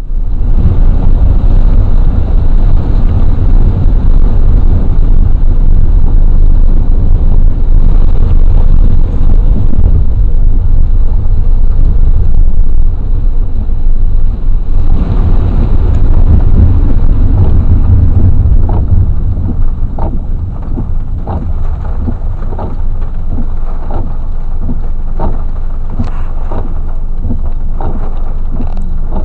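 Rain falling, under a heavy, steady low rumble. About two-thirds of the way through the rumble eases and separate drops start to tap loudly close by.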